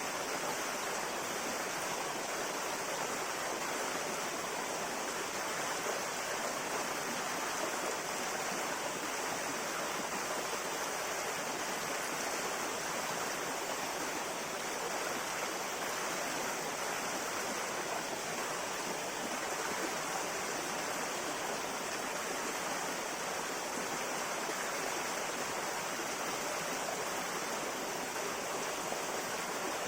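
River water flowing steadily over rocks: a continuous even rush with no breaks or changes.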